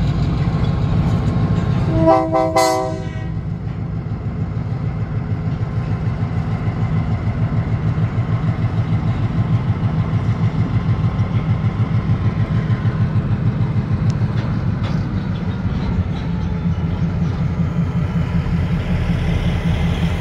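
Diesel switcher locomotive running with a steady low throb, and one short horn blast lasting under a second about two seconds in.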